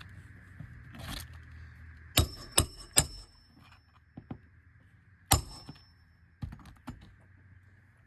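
Hammer striking a roof snake to drive roofing nails into a replacement asphalt shingle beneath the course above: a short scrape, then three sharp metallic strikes in quick succession, one more a couple of seconds later, and two lighter knocks, several with a brief metallic ring.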